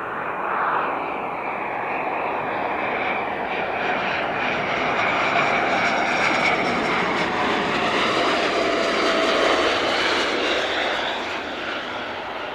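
Learjet 35's twin turbofan engines: a jet whine over rushing noise as the jet lands and rolls out. The sound grows louder toward the middle and eases near the end.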